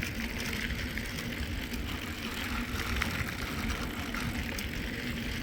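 Steady rumble of wind on the phone's microphone over mountain bike tyres rolling on a trail of packed sand and fine gravel, with a few light ticks.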